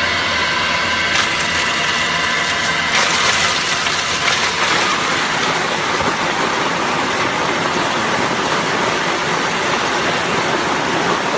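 Coconut meat grinding machine running: a steady machine whine with several held tones, turning into a rougher, denser rushing noise about three seconds in.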